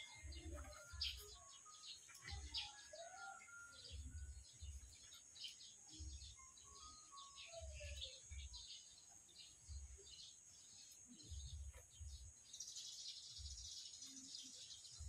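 Faint birds chirping and calling, with irregular low dull thumps. A hissing buzz comes in for about two seconds near the end.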